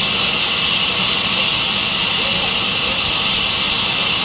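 Sawmill band saw (aara machine) running steadily, a loud, even, high-pitched hiss-like noise with no breaks.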